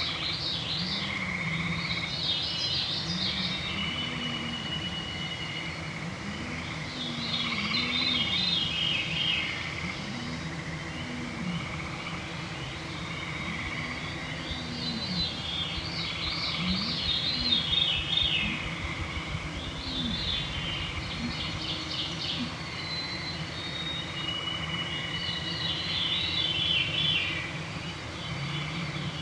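Songbirds singing in an evening forest chorus: one bird repeats a quick phrase about every four to five seconds, with some held whistled notes between. Beneath them runs a low hum that swells and fades, as of mosquitoes flying past the microphones.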